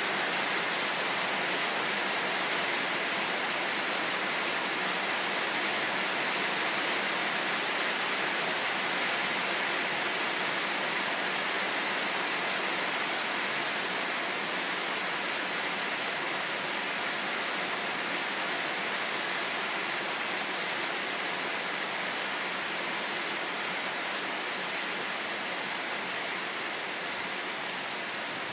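Steady rain falling, an even hiss with no separate drops, knocks or thunder standing out.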